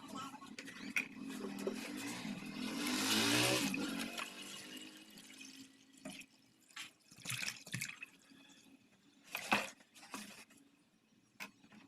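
Water pouring and splashing into a plastic bottle, swelling over the first few seconds with a rising pitch as it fills, then a few light knocks and clicks.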